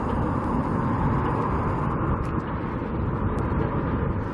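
Steady wind buffeting the microphone outdoors, a continuous rumbling noise with no distinct events.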